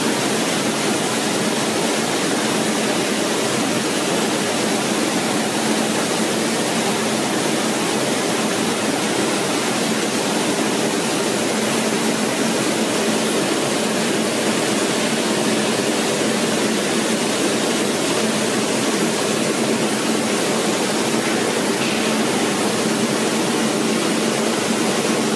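Bubble vegetable washing machine running: a steady rush of water churned by air bubbles, with a faint steady machine hum underneath.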